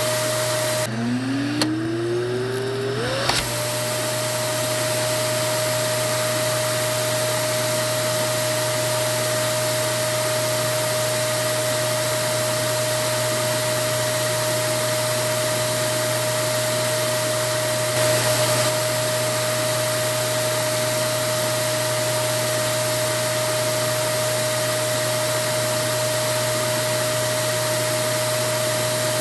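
Vacuum cleaner running steadily, a noise with a high whine through it. About a second in, the whine drops out and a tone climbs back up to the same pitch over two or three seconds, as the motor spins back up to speed.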